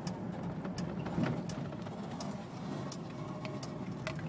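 Cabin noise of a 1999 Ford Crown Victoria driving below about 40 mph: a steady low road and drivetrain rumble with scattered light ticks and creaks. The speed-related hum is not heard at this speed.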